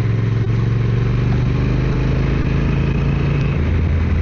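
Motorcycle engine running steadily at road speed under the rider, with road and wind noise; the engine note shifts a little near the end.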